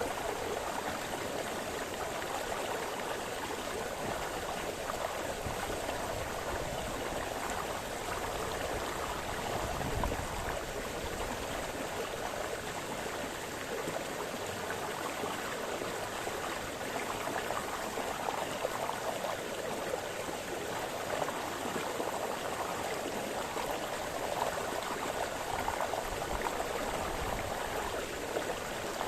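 Small brook splashing and burbling over stones in a steady, continuous flow.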